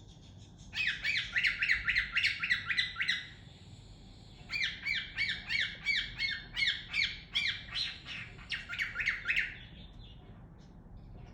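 Cockatiel chirping in two quick runs of repeated rising-and-falling notes, several a second, the first run lasting about two seconds and the second about five.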